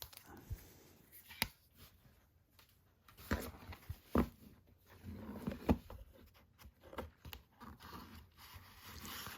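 Handling noise of card and paper packaging being sorted through: scattered light taps and clicks, with a stretch of rustling in the second half.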